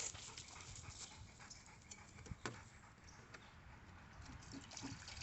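Pit bull panting faintly, with scattered light taps and clicks, one sharper tap about two and a half seconds in.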